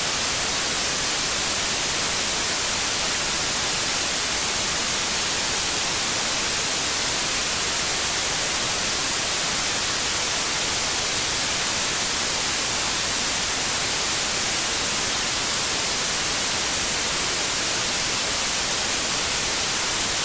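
Steady white noise, an unbroken hiss strongest in the highs, with no change or events.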